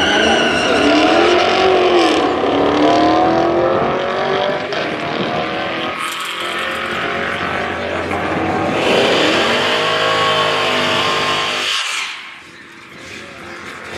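Chevrolet Camaro's engine running at full throttle down a drag strip, its pitch climbing and falling back at each upshift. The loudness drops suddenly about two seconds before the end.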